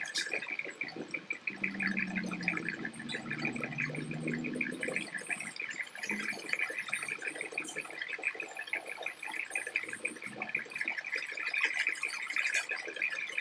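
MIG welding arc crackling steadily, a dense run of fine irregular crackles, with a low hum between about two and five seconds in.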